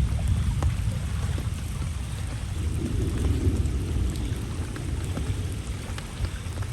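Steady rain, with scattered drops ticking close by over a continuous low rumble.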